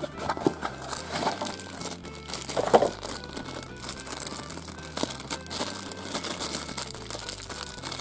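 Thin clear plastic wrapper crinkling and rustling as it is torn open and peeled off a small toy by hand, in uneven handfuls of crackle.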